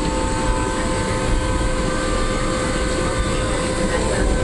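Steady jet airliner cabin noise on the ground: the engines and air system making a low rumble with a few steady whining tones.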